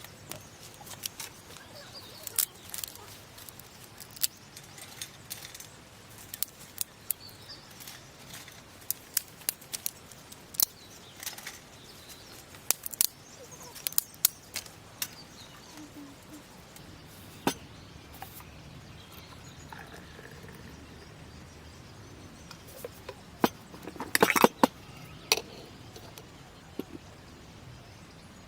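Irregular sharp clicks and clinks of small objects being handled, with a quick run of them near the end.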